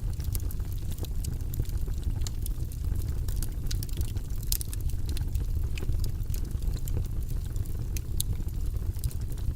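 Wood logs burning in a fireplace: irregular crackles and sharp pops, several a second, over a steady low rumble of the flames.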